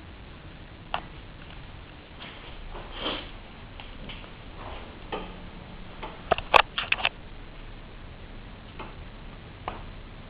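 Wood fire in a fireplace crackling over a soft hiss, with scattered irregular pops and a quick cluster of loud snaps about six and a half seconds in.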